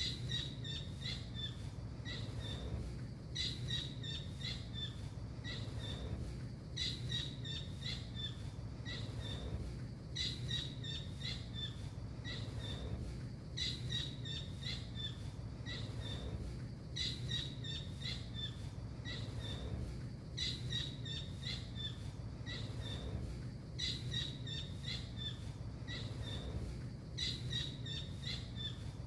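Tengkek biru, a small blue kingfisher, calling: runs of short, high, sharp notes in bursts of a second or two, repeated about every three seconds. A steady low hum lies underneath.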